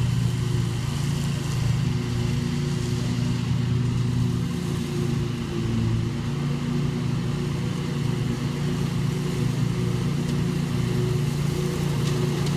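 Scag Tiger Cat II zero-turn mower running steadily as it mulches leaves, an even engine hum over the noise of the cutting deck.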